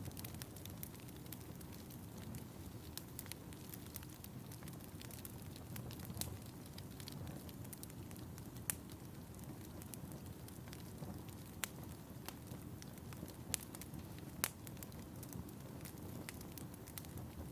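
Fireplace fire burning with a steady low rumble and scattered sharp crackles and pops, a few louder snaps standing out in the second half.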